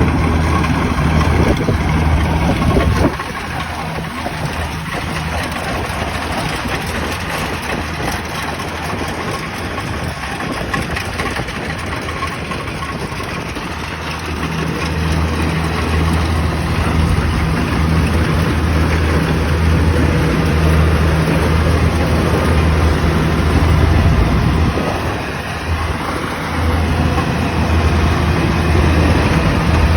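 Rice combine harvester's diesel engine running steadily with a low hum and the clatter of the machine. The level drops about three seconds in, swells again midway and dips briefly near the end.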